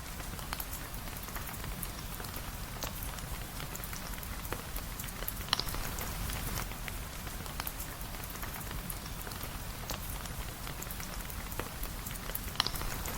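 Steady rain falling, mixed with the crackle of a fireplace: many small clicks and a handful of louder sharp pops.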